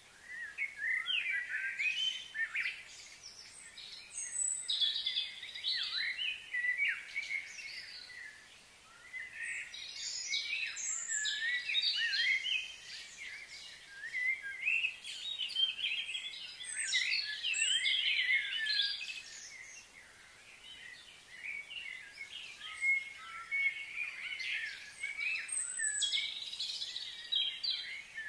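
Birds chirping and singing, many short calls overlapping in bursts of a few seconds with short lulls between.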